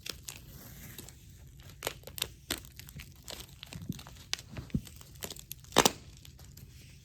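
Packaging being crinkled and torn by hand, irregular rustles and crackles with one sharp louder crackle near the end.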